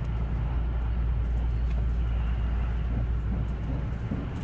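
Steady low rumble of a train running at speed, heard from inside the passenger car.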